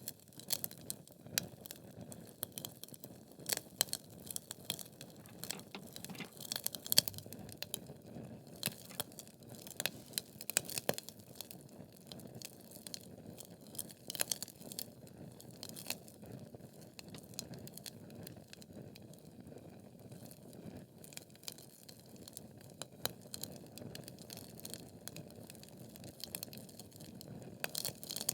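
Wood logs burning in a fireplace: irregular sharp crackles and pops over the soft low hiss of the flames. The pops come thick in the first half, with the loudest about seven seconds in, then thin out before picking up again near the end.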